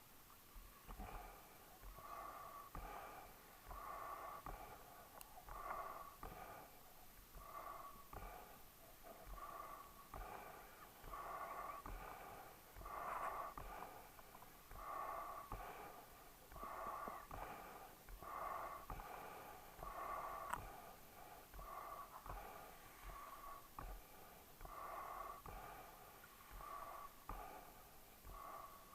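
A dog breathing noisily, with a wheezy, snorting sound on each breath, about one breath a second.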